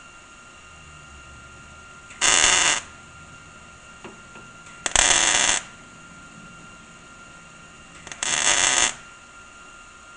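Welder laying three short tack welds on a sheet-metal patch panel, each a brief crackling burst of under a second, a few seconds apart.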